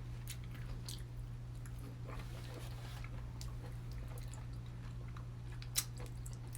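Faint chewing and small clicks of people eating peeled fruit fast, over a steady low hum, with one sharper click near the end.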